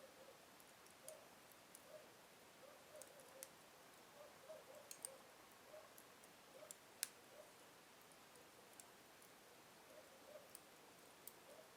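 Wood fire burning slowly in a fireplace, crackling softly with sparse, irregular small pops and one sharper pop about seven seconds in.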